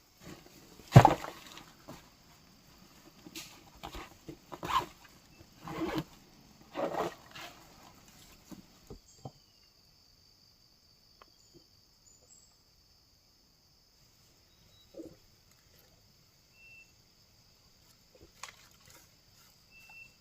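A series of irregular knocks and thuds over the first nine seconds, the loudest about a second in. Then a steady high insect buzz, like crickets, with a few faint ticks.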